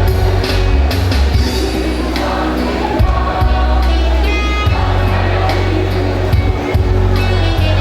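A choir singing over instrumental accompaniment with a strong, steady bass.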